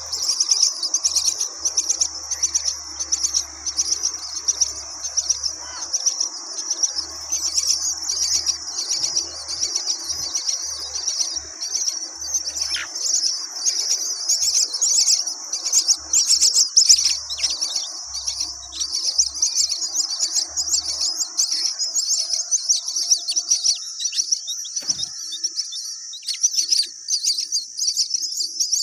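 Dense, continuous high-pitched chirping and twittering of birds, many quick chirps overlapping without a break.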